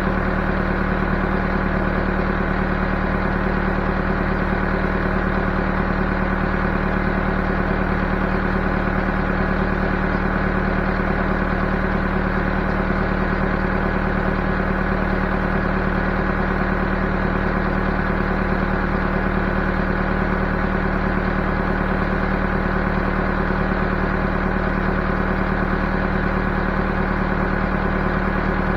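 Backhoe's diesel engine running at a steady speed, its pitch and loudness unchanging.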